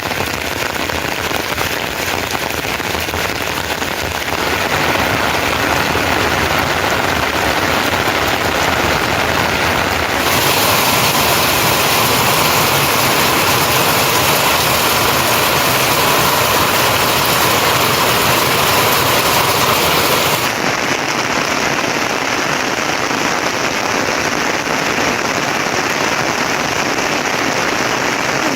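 Heavy rain falling, a steady loud hiss; its tone changes abruptly a few times, about 4, 10 and 20 seconds in.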